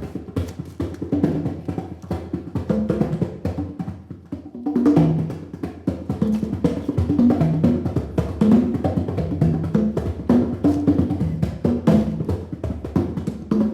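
Live percussion music: a dense, irregular run of quick strokes, many of them short notes at changing pitches.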